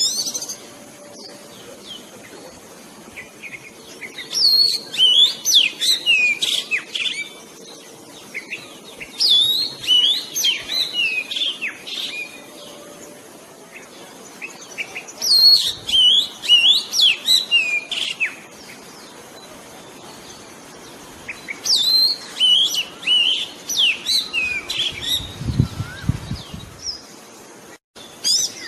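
Oriental magpie-robin singing: four bursts of quick, varied whistled phrases, each a few seconds long, with short pauses between them.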